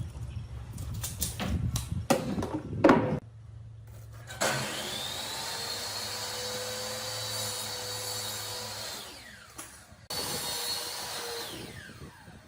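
Electric power tool switched on, running steadily for about four seconds, then spinning down. It is started again for a shorter run and spins down once more. A few knocks and clatter come first.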